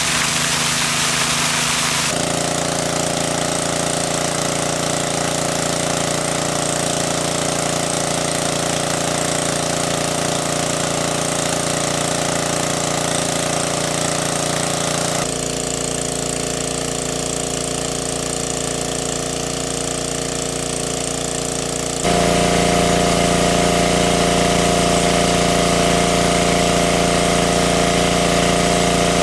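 A small engine running steadily. Its tone and loudness jump abruptly a few times, about 2, 15 and 22 seconds in.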